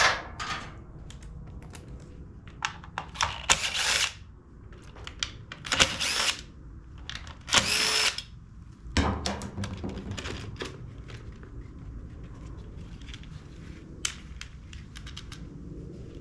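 Cordless drill-driver running in several short bursts of about half a second each, backing screws out of the blower's housing, with clicks and knocks of tools and parts in between.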